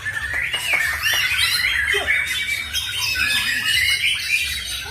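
Several caged songbirds, white-rumped shamas among them, singing at once: dense, overlapping whistles, chirps and rapid trills.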